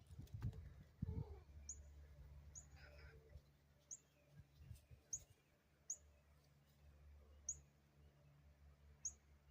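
A bird's short, high chirp, repeated about once a second, faint over a low steady hum, with a few low thumps in the first second or so.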